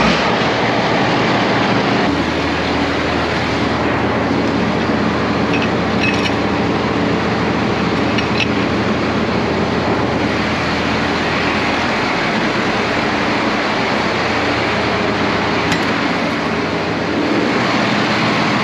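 Heavy vehicle engine running steadily under a dense mechanical din, with a few light clinks about six and eight seconds in.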